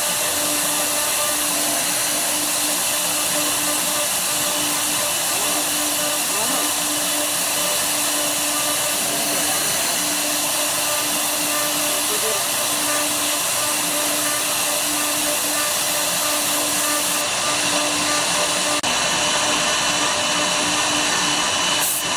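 Woodworking CNC router running steadily as it cuts, a continuous hiss with a faint whine and a low hum that keeps breaking off and coming back.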